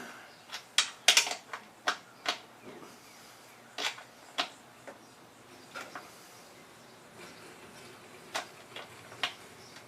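A series of sharp, irregular clicks and knocks, about a dozen, with the loudest cluster about a second in and fewer, spaced-out clicks later on.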